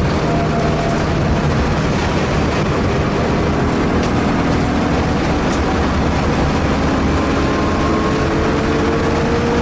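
Car engine running hard with heavy road and wind noise inside the cabin while driven at speed on a track. The engine note climbs steadily over the last two seconds as the car accelerates.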